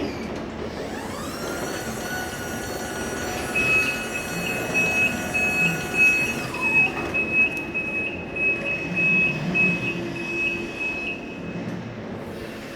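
Electric reach truck at work: its motor whine rises within the first second and a half, holds steady, then winds down about six seconds in. A high-pitched warning alarm beeps about twice a second from about three and a half seconds in until near the end.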